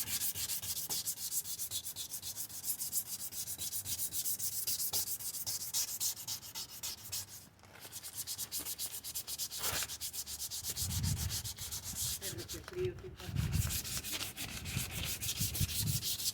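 Sandpaper worked by hand across a plastic headlight lens in rapid back-and-forth strokes, several a second, with short breaks about halfway and near the end.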